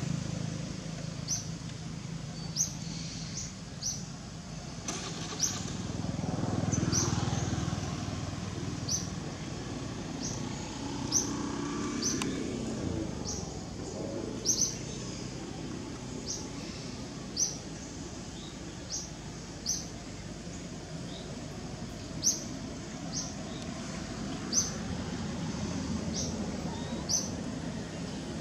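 A small bird repeating short, sharp high chirps about once a second, sometimes in quick pairs, over a low steady rumble like distant traffic.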